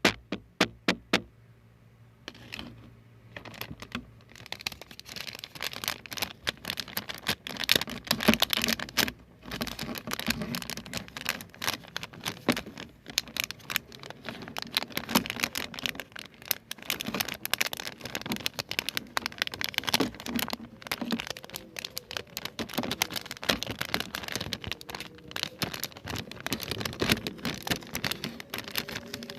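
Close-up ASMR trigger sounds: a few evenly spaced pitched taps at the very start, then after a brief pause a dense, irregular run of crinkling, crackling and tapping.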